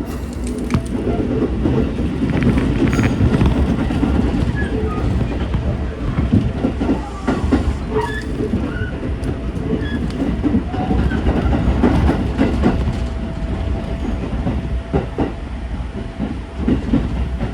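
Running noise of a JR Tokaido Line local electric train heard inside the passenger car: a steady low rumble with irregular clacks and knocks of the wheels over rail joints and points, and brief scattered squeaks from the wheels.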